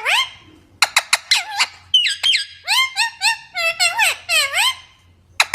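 Parrot calling in a fast run of short, high, shrill screeches that bend up and down in pitch, mixed with sharp clicks; the calls stop about five seconds in.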